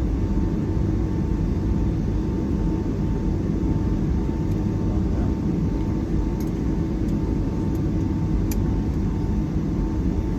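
Steady cabin noise inside a Boeing 757-300 airliner: an even low rumble with a faint constant whine, and a few light clicks in the second half.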